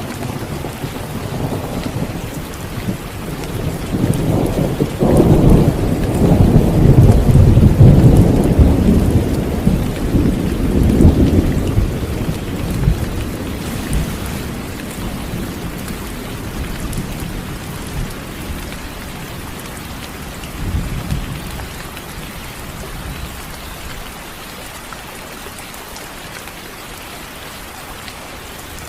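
Steady heavy rain with a long, low roll of thunder that builds a few seconds in, peaks, and slowly dies away, followed by a weaker rumble later on.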